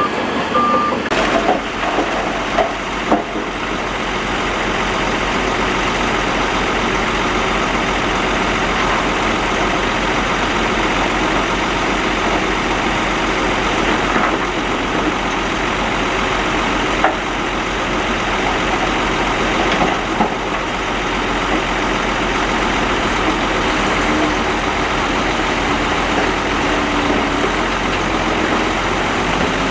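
Heavy earthmoving machinery engine running steadily, with a few brief knocks and clanks. A reversing beeper sounds briefly and stops about a second in.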